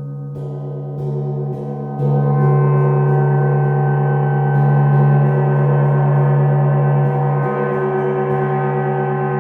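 A gong played with soft, repeated mallet strokes, about two a second, its deep hum with many ringing overtones swelling louder about two seconds in and then sustaining.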